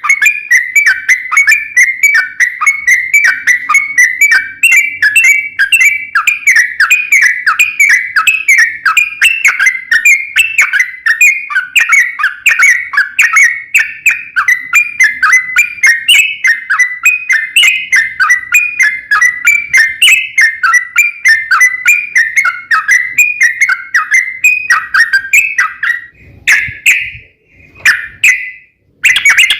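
Yellow-vented bulbul (trucuk) song: a long, rapid, unbroken string of bubbling whistled chirps, several a second. It breaks off near the end, gives two short phrases, then starts again.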